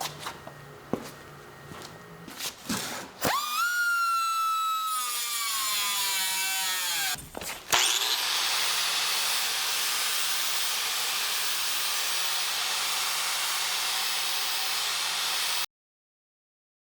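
A power tool at work: a few light knocks, then a loud whine that slides down in pitch for about four seconds, followed by a steady loud hissing run that cuts off abruptly near the end.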